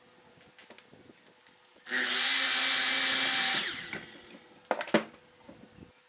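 A power tool runs for about two seconds at a steady pitch, then winds down, followed by a few sharp knocks near the end.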